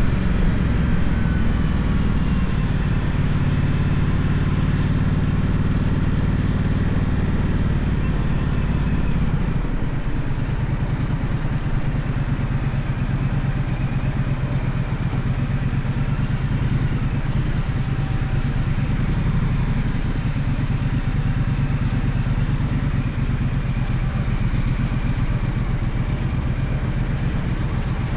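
Gaokin GK1200 motorcycle engine running steadily while riding, its note changing about nine seconds in.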